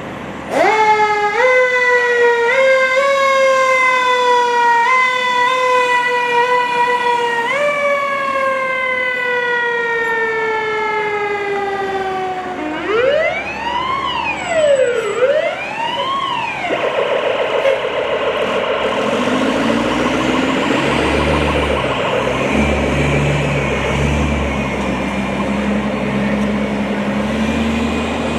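Fire truck siren winding up and slowly falling in pitch, pushed up again every couple of seconds, then a siren sweeping up and down twice in quick cycles. After that the heavy fire trucks' engines and road noise rumble as the apparatus passes.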